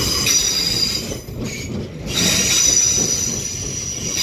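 Departing London Northwestern Railway Class 350 electric multiple unit running out of the platform, its wheels giving a high-pitched squeal over a low rumble. The squeal drops away briefly after about a second and comes back strongly about two seconds in.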